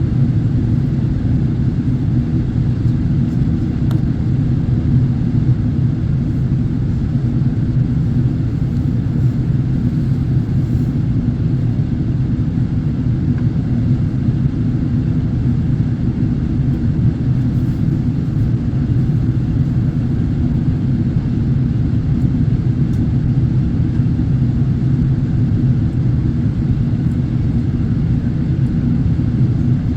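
Steady low rumble of an airliner in flight heard from inside the passenger cabin: jet engines and airflow, unchanging throughout.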